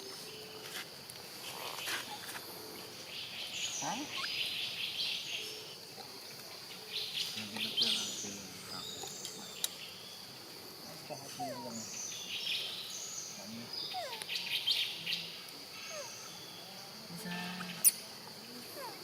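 Outdoor ambience with birds chirping and tweeting in short scattered calls over a steady high-pitched drone, and a sharp click near the end.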